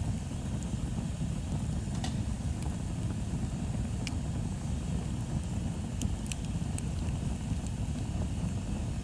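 Bonfire burning, with a steady low rumble under it and a few sharp crackles and pops of burning wood, about five in all.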